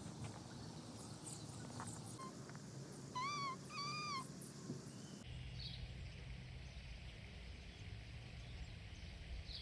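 A peacock calling twice in quick succession, two short rising-and-falling cries about three seconds in. Around them is faint background noise with a few high chirps.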